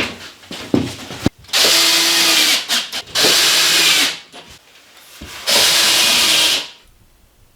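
Power drill run in three bursts of about a second each, with knocks and handling clicks before the first.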